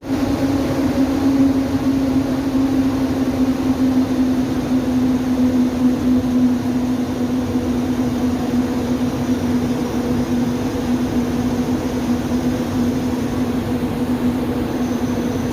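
Ventilation fan running steadily: a constant rush of air with a steady low hum.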